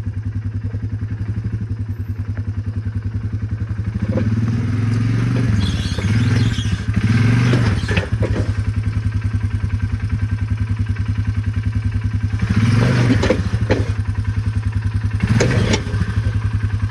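ATV engine idling, revved up and back down several times in short swells as it is driven up onto a small trailer, with knocks and clatter between the revs.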